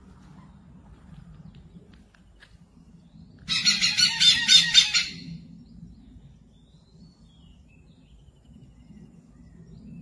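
A bird calling in one loud burst of rapid, evenly pulsed notes lasting about a second and a half, starting about three and a half seconds in, with a few faint short whistles before and after.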